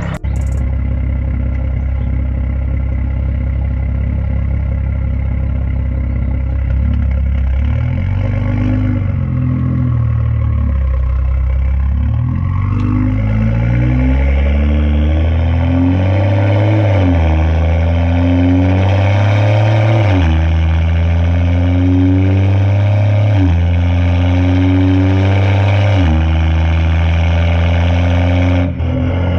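BMW 335i's N55 turbocharged inline-six with a fully straight-piped exhaust (catless downpipe, resonator and muffler deleted), loud and raw. It runs steadily at first; then, from about eight seconds in, the note climbs and drops back again and again as the car accelerates and shifts up through the gears.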